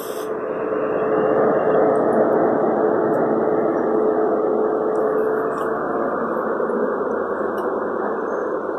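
CrossCountry InterCity 125 High Speed Train departing, its Class 43 power cars running under power: a loud, steady rumble with a steady tone that fades out about five and a half seconds in.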